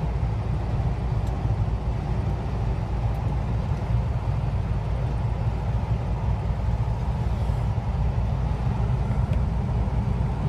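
Truck engine and road noise heard inside the cab while driving: a steady low drone.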